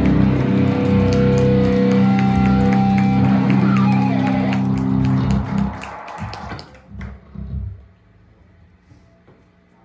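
Live band's amplified electric guitar and bass ringing out a loud held chord that stops about five and a half seconds in. A few low bass notes follow, then only a faint amplifier hum.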